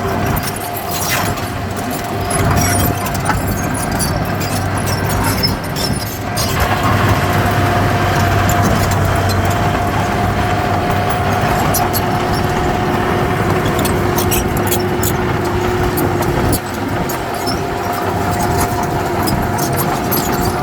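Heavy diesel earthmoving machinery running steadily, with a continuous high whine held over the engine noise and scattered sharp metallic clicks.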